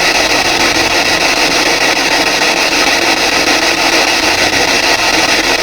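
PSB7 spirit box sweeping through radio stations: a steady, loud wash of radio static chopped by rapid flicker, with no clear voice.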